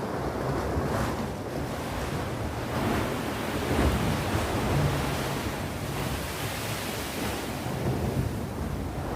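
Sea waves breaking and washing ashore: a continuous surf noise that swells and eases, with a hissing wash building in the middle.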